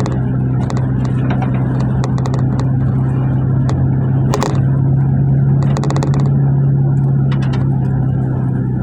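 Riding inside a GAZ route minibus: the engine and road make a steady low drone, with scattered rattles and clicks from the cabin and a sharper clatter about four and a half seconds in.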